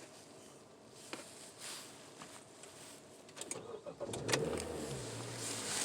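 2020 Honda CR-V engine cold-started with the key: a click, then a short burst of starter cranking about three and a half seconds in. It catches with a sharp click and settles into a steady idle.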